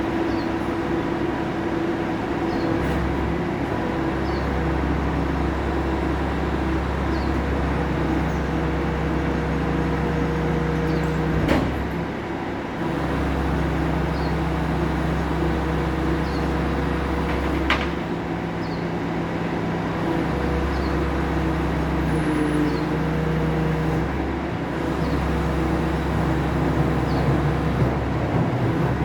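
Garbage truck engine running steadily, with a deeper drone that comes in and drops out in stretches of several seconds, and two sharp knocks along the way.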